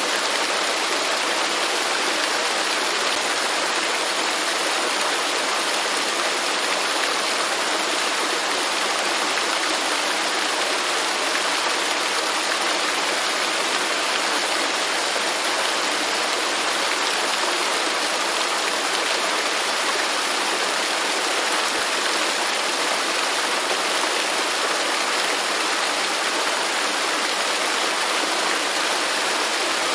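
Waterfall: falling water rushing steadily, an even hiss with little low rumble.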